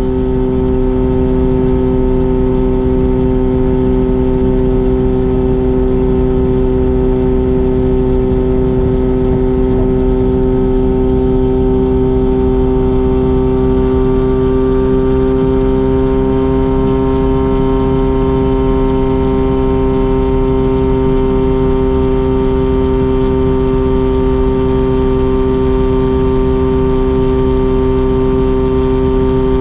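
Mazda RX-7's two-rotor rotary engine and exhaust, cruising at a steady speed with a loud, even drone. The pitch rises slightly from about halfway through.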